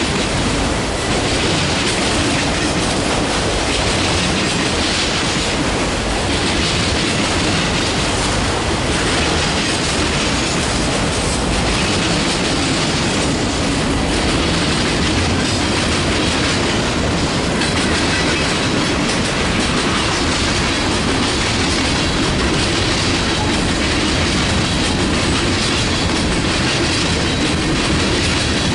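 Freight train cars rolling past at close range, a steady loud rumble with wheels clicking over the rail joints.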